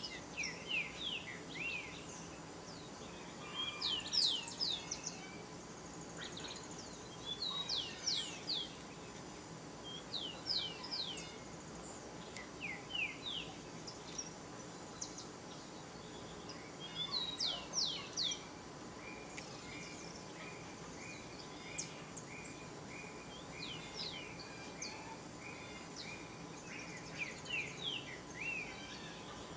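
Birds calling: clusters of short, high, quickly sweeping chirps every few seconds, and around the middle a run of about a dozen evenly spaced lower notes, about three a second. Under them is a faint steady hum.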